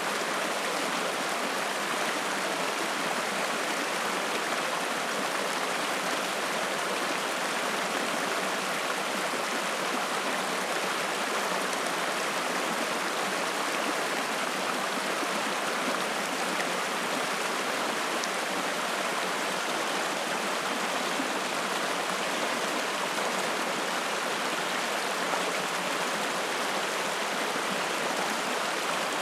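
Spring-fed mountain stream running, a steady, even rush of water.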